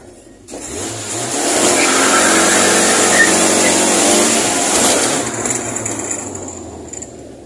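Fiat 147 race car's four-cylinder engine heard from inside the cabin, revving hard as the car accelerates. It climbs about a second in, holds loud for a few seconds, then dies away near the end as the throttle eases.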